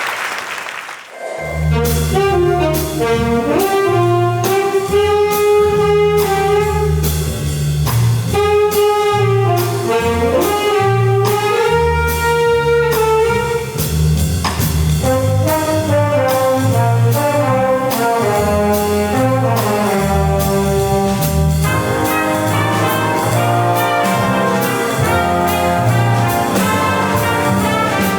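A jazz band starts playing about a second in, as applause dies away: brass and saxophones play held melody notes over a walking bass line, with a cymbal keeping a steady beat.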